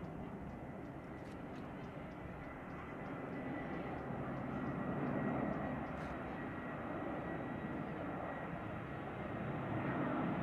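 CFM56 turbofan engines of an easyJet Airbus A320 running: a steady rushing jet noise with a thin high whine over it, growing louder about halfway through.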